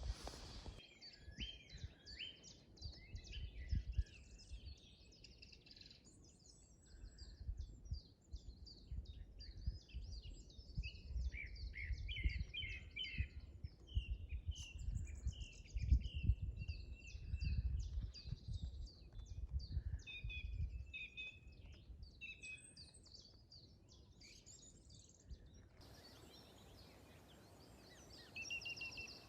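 Several wild birds singing and chirping in the open countryside, with gusts of wind rumbling on the microphone that ease off after about twenty seconds.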